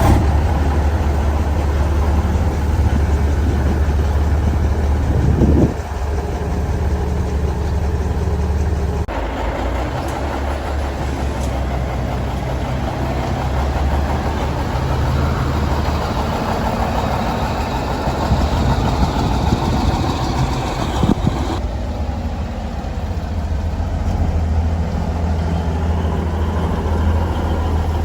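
Vintage truck engines running, a deep steady rumble at idle and low speed, with the sound changing abruptly twice as one truck gives way to another.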